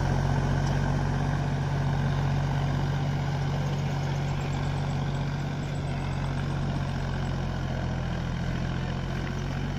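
John Deere 5050D tractor's three-cylinder diesel engine running steadily at low revs, a constant drone that grows slightly quieter.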